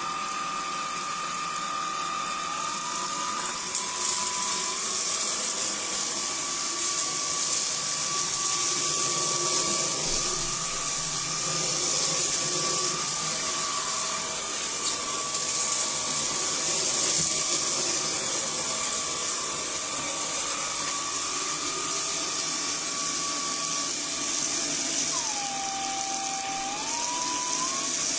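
Proscenic I9 cordless stick vacuum running, a high motor whine over a strong rush of airflow. Its pitch steps up a few seconds in, then dips about three seconds before the end and climbs back.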